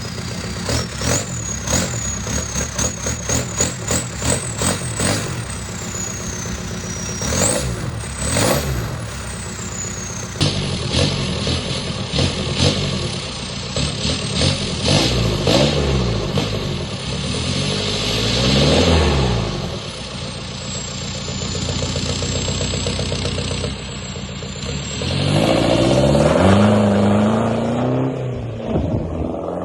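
Straight-piped 1.9 TDI four-cylinder pumpe-düse diesel running cold at −19°, with fast pulsing clatter in the first few seconds. It revs up and down several times in the middle, then climbs steeply in revs about 25 seconds in under hard acceleration.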